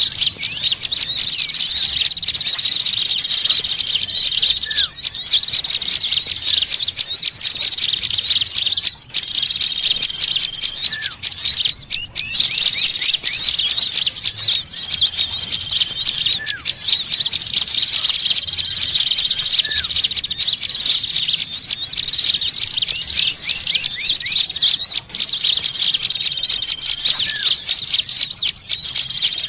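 A flock of small songbirds chattering noisily, with many rapid high chirps overlapping without pause and a single short, lower falling call every few seconds. It is a bird-lure recording of agitated small birds.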